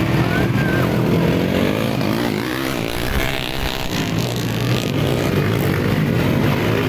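Several motocross motorcycle engines revving up and down as the bikes race, their pitches rising and falling over one another above a steady low drone.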